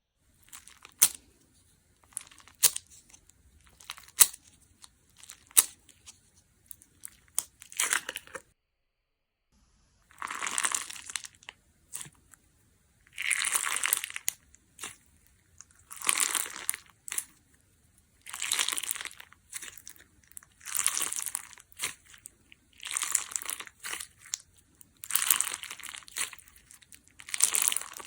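Clear crunch slime with a bubbly 'water bubble' texture being played with by hand, crackling. First come sharp single cracks, then, after a short pause, longer crackling squishes about every two and a half seconds.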